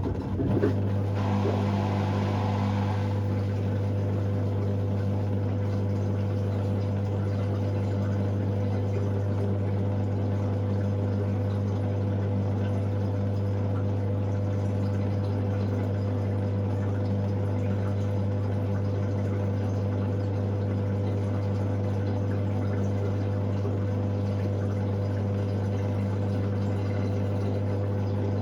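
Hoover Sportswear 1300 washing machine's drain pump humming steadily, with water rushing through it in the first few seconds.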